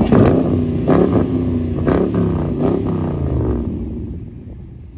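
A car engine being revved in several quick blips, its pitch rising and falling about once a second, with a couple of sharp cracks, before it falls back and fades after about three and a half seconds.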